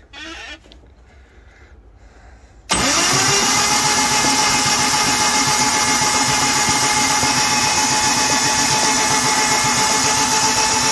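A Chrysler 2.4-litre four-cylinder engine catches about three seconds in and then runs steadily. This is its first start after a decarbonizing soak, fired on old spark plugs with the cylinders still wet with cleaner.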